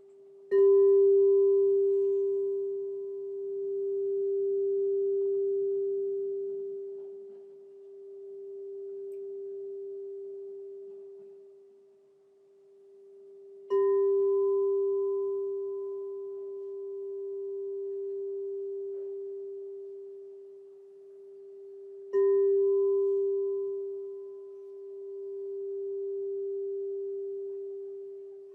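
Crystal singing bowl struck three times, each strike ringing on as one long, pure tone with a faint higher overtone. The ringing swells and fades in slow waves as it dies away.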